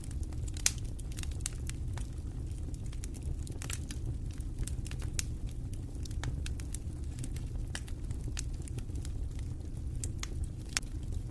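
Wood fire in a fireplace crackling, with frequent irregular sharp pops over a steady low rumble of the burning logs; one pop stands out about a second in, another near the end.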